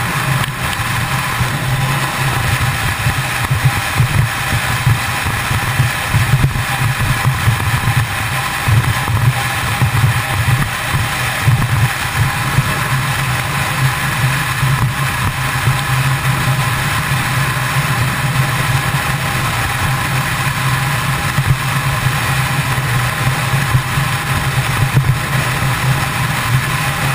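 Kawasaki ZX-10R's inline-four engine running steadily while cruising at highway speed, with wind rushing over the microphone.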